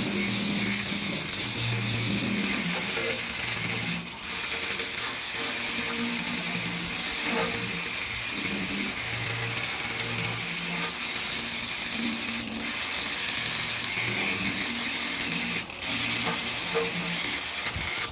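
Workshop noise of mechanical work on the lathe bench: a continuous busy clatter with a hiss over it, broken by short drop-outs about four, twelve and sixteen seconds in.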